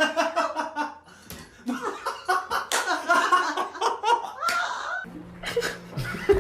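Person laughing hard in quick repeated bursts for about five seconds. The laughter then stops and gives way to a steady low hum with a few sharp knocks near the end.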